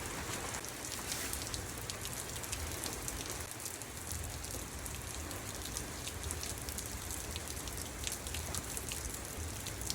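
Steady rain falling, with many small sharp ticks of drops striking a hard surface through the hiss.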